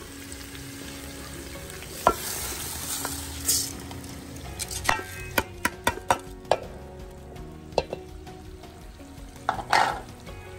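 Dry rice poured into an aluminium cooking pot, a rushing hiss about two seconds in, followed by a string of sharp knocks and scrapes as a wooden spoon works through the rice and potatoes against the pot.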